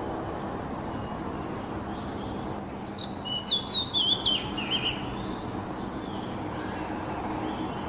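Oriental magpie-robin singing: a few faint short notes, then about three seconds in a quick, loud run of sharp whistled notes that slide up and down, over a steady background hiss and rumble.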